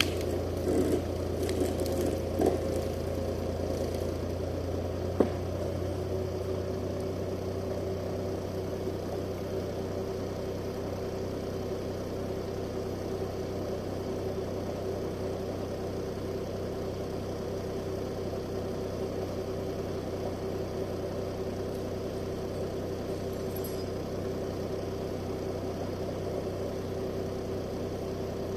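Steyr 540 tractor's diesel engine running at a steady speed, with a few knocks and rattles in the first five seconds, the sharpest about five seconds in.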